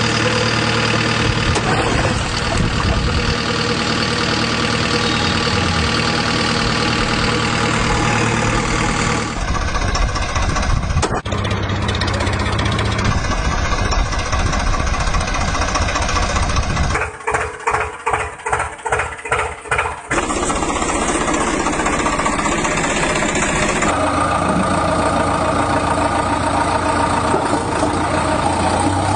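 Tractor engines running and idling with a steady hum. The sound changes abruptly several times, and for a few seconds past the middle it breaks into slow, even chugging of about three pulses a second.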